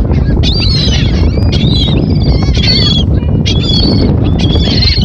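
A flock of birds calling, many short high calls and chirps overlapping, over a steady low rumbling noise.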